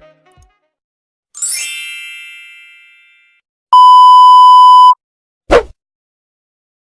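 Three stock sound effects one after another. First a bright bell-like ding rings out and fades over about two seconds. Then comes a loud, steady censor bleep about a second long, and last a very short downward swoosh.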